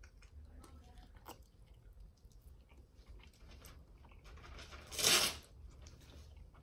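Close-up eating sounds of a person working on a sauced chicken wing: quiet chewing with small wet smacks and clicks. About five seconds in comes one short, louder rush of noise.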